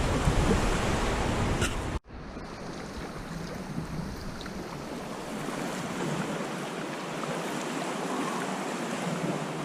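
Sea waves and wash around a sea kayak, with wind buffeting the microphone and a low rumble. About two seconds in the sound cuts off abruptly, then resumes as a quieter, steadier wash of water.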